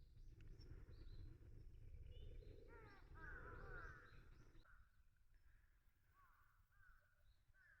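Faint outdoor ambience of birds calling: a quick run of repeated calls about three seconds in and a few more near the end, over a low rumble that fades out about halfway.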